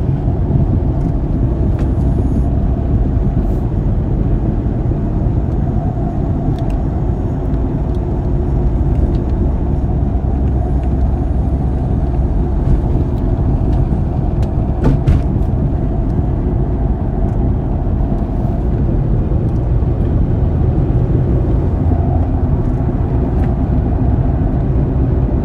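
Steady low rumble of a car being driven, road and engine noise, with a few faint clicks about fifteen seconds in.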